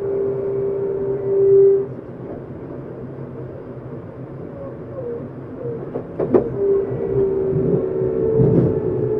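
Interior running sound of a Tokyu 7700 series electric train car: low rumble under a steady motor whine that cuts off about two seconds in. A few sharp wheel knocks come about six seconds in, the whine returns soon after, and another knock follows near the end.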